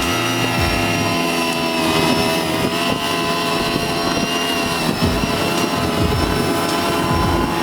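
Tractor engine running steadily: a continuous droning hum with several held tones, including a high whine.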